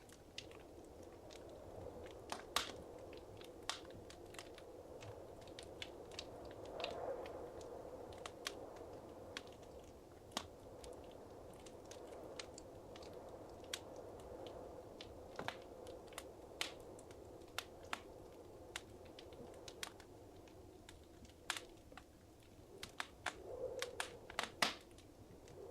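Wood fire in a fireplace crackling, with irregular sharp pops and snaps over a soft steady hiss and rumble of the flames.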